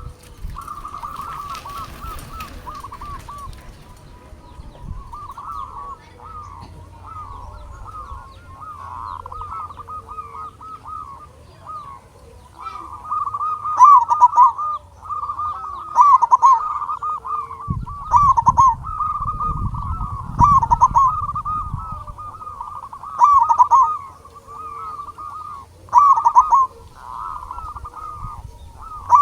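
Zebra dove (perkutut) cooing in a near-continuous run of short, rolling phrases, with much louder coos coming every two to three seconds from about halfway in. A low rumble comes and goes about two-thirds of the way through.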